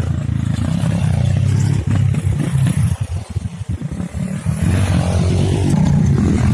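A small single-cylinder trail motorcycle engine running under throttle. The engine note breaks up and comes and goes for a couple of seconds in the middle.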